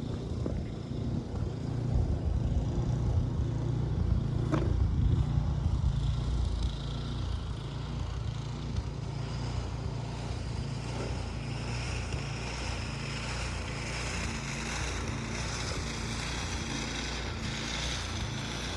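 Steady low rumble of a running engine, with a lighter hiss over it in the second half.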